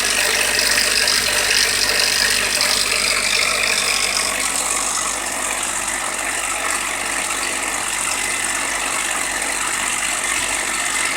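Suzuki Jimny JB23W's K6A three-cylinder engine idling with a fast metallic rattle from the timing chain, the knock of a faulty number-1 hydraulic chain tensioner. A little louder for the first five seconds, then it settles slightly lower.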